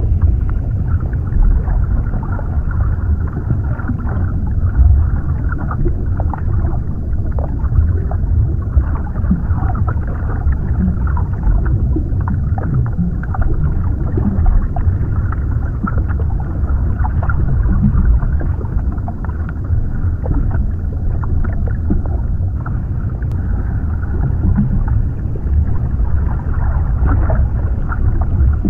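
Underwater ambience: a steady, muffled low rumble of water with small bubbling blips scattered through it.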